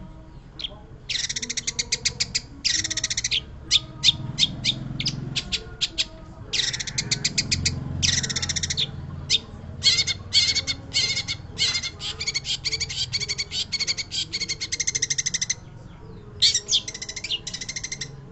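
Long-tailed shrike (pentet) singing: fast, chattering runs of quick, high repeated notes, each run lasting one to three seconds, with short pauses and a few single notes between them.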